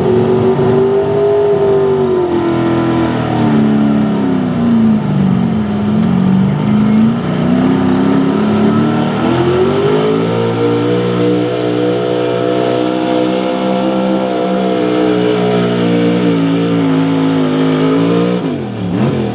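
Small-block V8 engine of a 4x4 pulling truck running hard at high rpm. The revs sag midway, climb back up and hold, then drop off sharply near the end.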